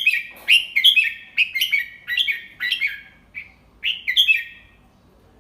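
Red-whiskered bulbul singing a phrase of about a dozen short, quick chirping notes that stops shortly before the end. It is a tutor bird's song of the kind played to young bulbuls for them to copy.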